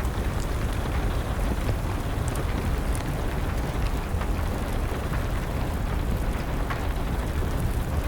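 Steady rain with a deep, even rumble underneath, and an occasional sharp crackle from a burning wood fire.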